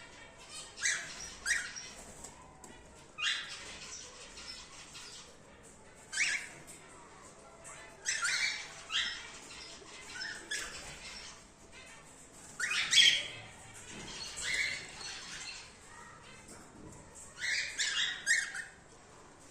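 Cockatiels in a colony aviary giving short, harsh squawking calls, one or two birds at a time, a dozen or so scattered calls with the loudest about two-thirds of the way through.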